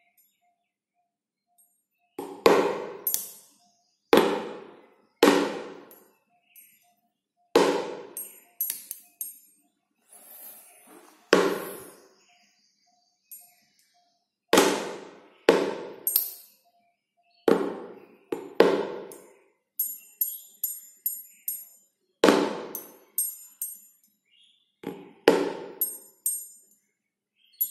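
Tuning fork struck again and again against a rubber pad, about a dozen times with uneven gaps and sometimes twice in quick succession; each strike rings and dies away within about a second. Light, quick ticks come between some of the strikes.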